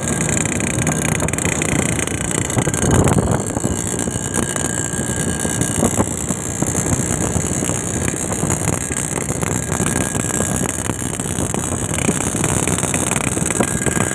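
Yamaha RX-King's two-stroke single-cylinder engine running at idle through a crisp, crackly-sounding exhaust, with one brief rise in level about three seconds in.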